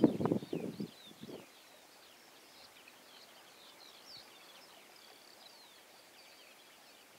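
A small bird singing faintly, a continuous high twittering of short sweeping notes, over a quiet outdoor background. A few low knocks and rustles of handling in the first second or so are the loudest sounds.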